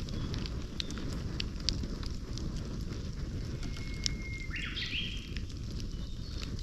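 Campfire burning with a low steady rumble and scattered sharp crackles and pops. About four seconds in a bird calls once: a short held whistle, then quick rising notes.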